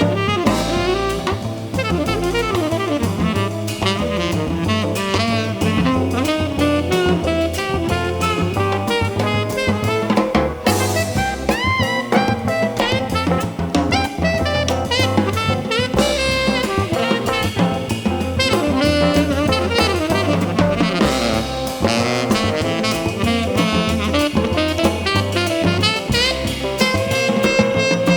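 Live jazz band playing: saxophone lead over drum kit, bass and keyboard, with guitar in the group.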